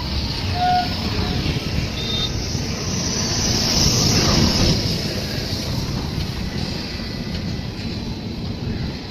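Running train's rumble and rushing noise, swelling to a peak about four seconds in and then easing off.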